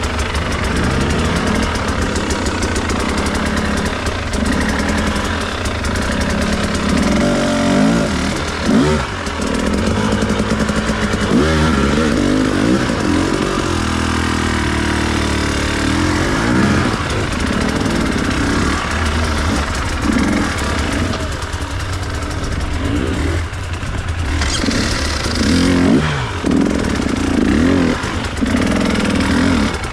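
Enduro dirt bike engine revving up and down in repeated bursts, throttle opened and closed over and over as the bike is ridden over rough ground.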